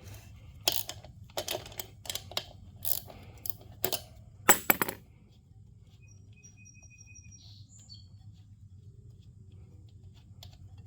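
Metal clinks and taps of a hand tool working the valve stem lock nut off a dirt bike's rear wheel rim, a handful of separate strikes over the first five seconds, ending with a quick loud double clink.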